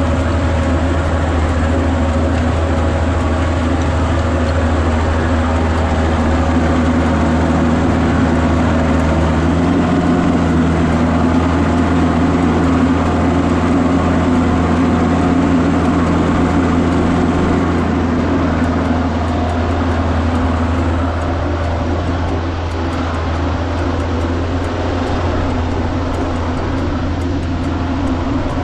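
Kubota tractor's diesel engine running steadily at constant speed, with a slight shift in its tone about ten seconds in.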